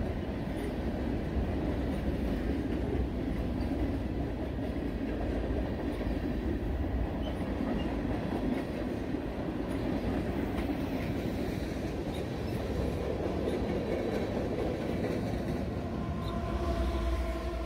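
Metra commuter train led by an F40PH-3 diesel locomotive running through the station, a steady rumble of engine and steel wheels on rail. About a second before the end, a steady chord of several tones comes in.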